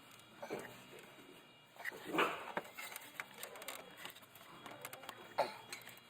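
Hand work with a ratchet and socket in a car's engine bay: scattered clicks and knocks, with short scrapes at about half a second, two seconds and five seconds in.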